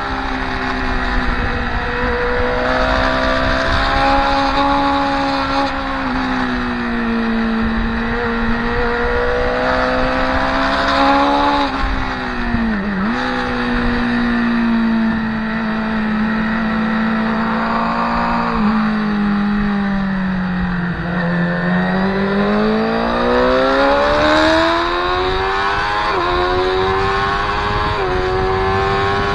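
Motorcycle engine at speed, heard from the bike itself, its note rising and falling with the throttle and gear changes: a quick dip and recovery about halfway, then a long fall as it slows and a steady climb as it accelerates again, with small steps at the gear shifts near the end.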